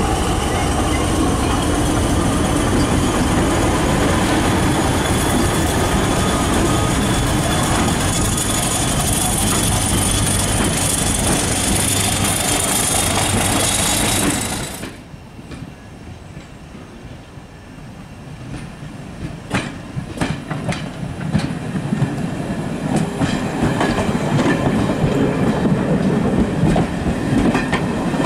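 A diesel-hauled heritage passenger train running, a steady rumble with high whining tones that rise slightly. About halfway through the sound cuts and drops quieter, then the coaches roll past close by, with clicks of wheels over rail joints growing louder toward the end.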